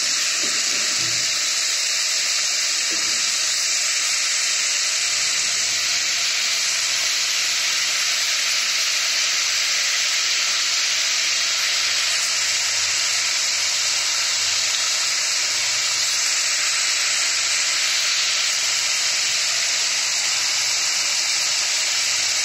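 Cubed pumpkin frying in hot oil in a kadhai, a steady sizzle.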